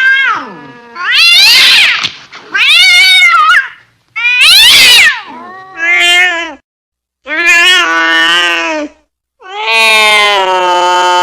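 Domestic cat yowling angrily in a string of about six drawn-out calls. The first calls rise and fall in pitch, and the last is lower, long and held.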